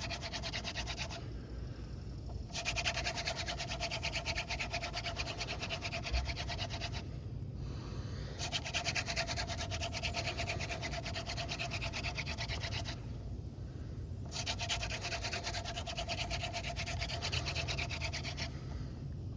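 Hand drill friction fire: a dried dogfennel spindle spun back and forth between the palms, its tip grinding into the notch of a tulip poplar fire board with a fast, dense rubbing and a faint steady tone. The spinning stops three times, for about a second and a half each, as the hands move back to the top of the spindle.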